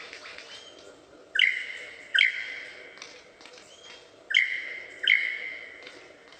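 A bird calling: two pairs of loud, high calls, each a quick upward slide into a held whistle that fades over about half a second, with a few faint short peeps between the pairs.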